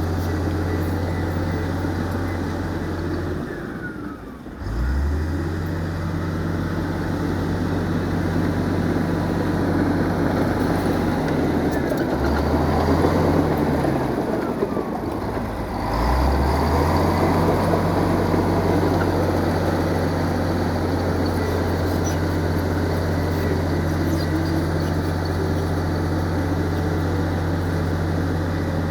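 Heavy diesel engine of earthmoving equipment running under load. Its pitch drops and picks up again about four seconds in, shifts again around twelve to sixteen seconds in, then holds steady.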